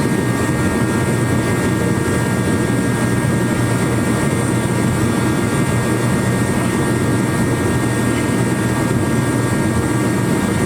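1990 Polaris quad's engine running at a steady speed, with no revving.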